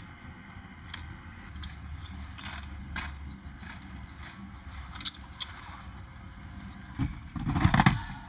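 Scattered clicks, knocks and scrapes of small objects being handled, over a low steady hum, with a louder rustle and thump about seven seconds in.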